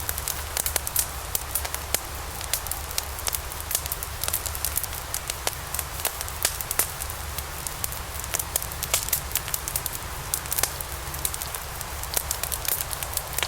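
Wood fire burning in a fireplace: logs crackling with many sharp, irregular pops over a steady hiss, with a low rumble underneath.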